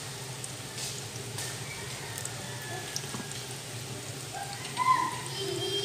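Eggplant omelette frying in oil in a pan over low heat: a steady sizzle with scattered small crackles. A brief higher-pitched sound stands out over it about five seconds in.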